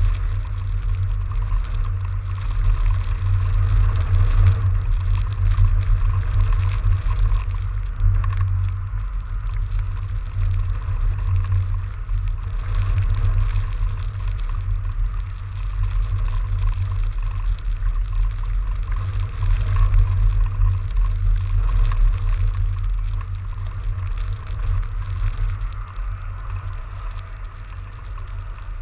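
Wind buffeting the microphone of a fat bike moving through a snowstorm: a steady low rumble, with a fainter hiss of the ride over it.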